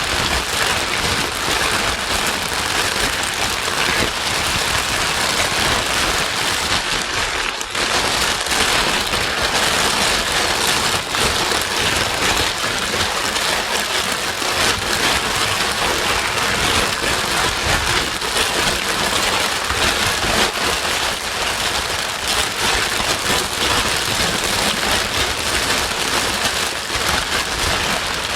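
Steady white noise for soothing a crying baby: a dense, even hiss spread across low and high pitches, with a brief slight dip about seven seconds in.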